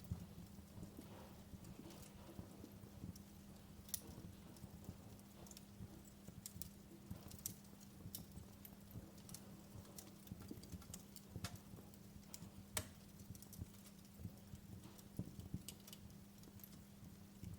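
Wood fire crackling in a fireplace: irregular pops and snaps, a few louder than the rest, over a faint low rumble.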